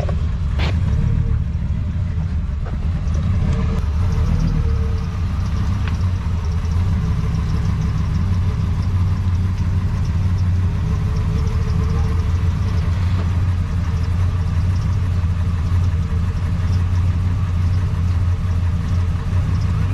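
A vehicle engine running at a steady low idle, a continuous low rumble with no revving.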